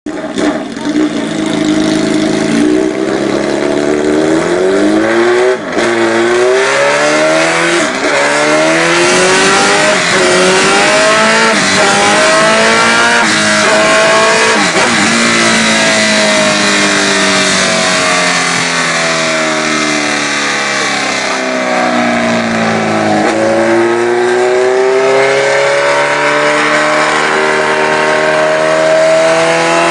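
Suzuki GSX-R1000 K3 inline-four sport-bike engine with a slash-cut exhaust, running hard on a dyno. The pitch climbs as it revs, drops sharply at gear changes about 5 seconds and 23 seconds in, and winds down slowly in the middle before pulling up again near the end.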